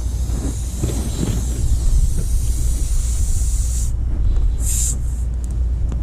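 Air hissing out of a punctured car tire through the plug hole. The hiss cuts off about four seconds in, then one short spurt of escaping air follows, over a steady low rumble.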